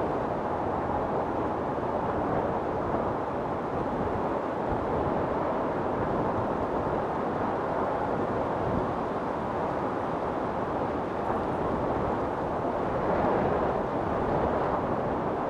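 Wind storm blowing steadily as a dense, low rushing noise, swelling slightly about thirteen seconds in.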